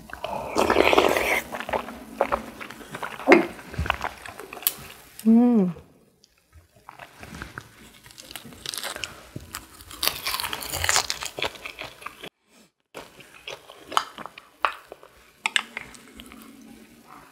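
Close-up chewing and crunching of crisp food in a person's mouth, in several bouts with short pauses. About five seconds in there is a brief rising-and-falling vocal sound.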